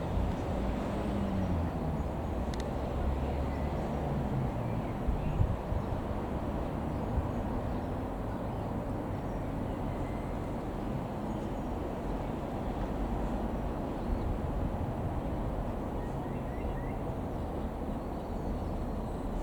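Comco Ikarus C-42 FB100 microlight's Rotax 912 ULS four-cylinder engine and propeller droning as the plane flies past, its pitch falling over the first few seconds.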